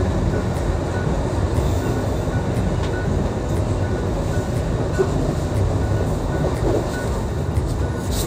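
Steady rumble of a passenger train running along the track, heard from inside the coach, with faint background music keeping a regular beat.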